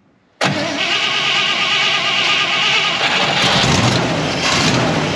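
1955 GMC 100 pickup's V8 engine running loudly, cutting in abruptly about half a second in after a moment of near silence.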